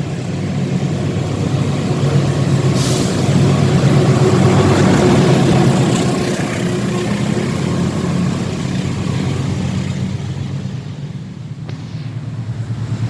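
Diesel-electric locomotive engine running with a deep, steady throb that swells louder for a few seconds and eases off briefly near the end. A short hiss of air sounds about three seconds in.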